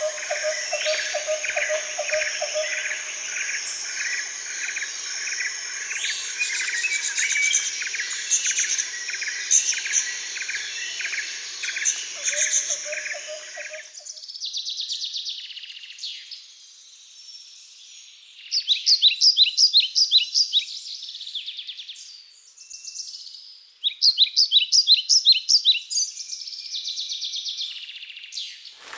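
Birds calling and singing: a dense chorus of fast repeated chirps that stops abruptly about halfway. It is followed by separate loud, rapid high trills in short bursts.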